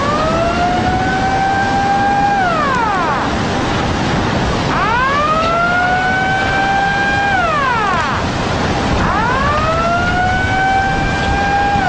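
Outdoor tsunami warning siren of the town's disaster loudspeaker system sounding in long wails, each rising, holding and then falling, three times about every four and a half seconds, over a loud steady rushing noise of the flood.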